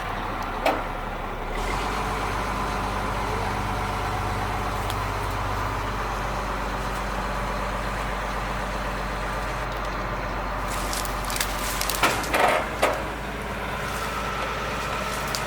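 A heavy truck's engine running steadily, with a few short, sharper noises about twelve seconds in.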